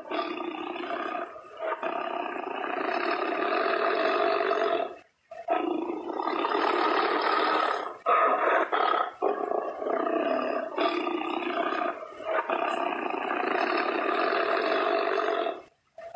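Tiger roaring in long drawn-out calls, broken by short pauses, with an abrupt silence about five seconds in and again near the end.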